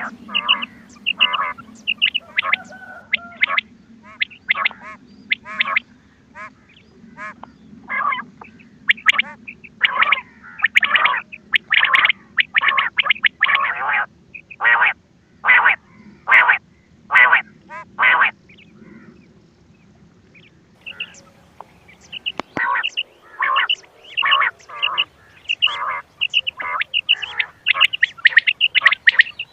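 Recorded quail calls played as a hunting lure: short, sharp calls repeated in quick runs, stopping for a couple of seconds a little past halfway before starting again. A faint low hum lies under the first part.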